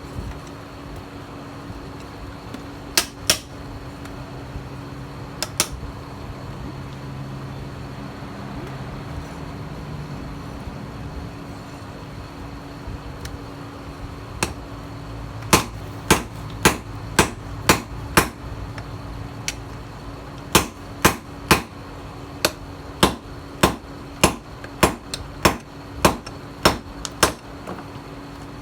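A hammer striking steel, forging the tiller blade into a knife: a few blows early, then a long run of even strikes about two a second over a steady hum.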